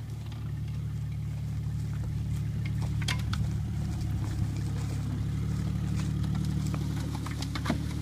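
A 1997 Jeep Grand Cherokee ZJ engine runs steadily under load as the Jeep crawls through mud and brush. A few sharp knocks come about three seconds in and again near the end.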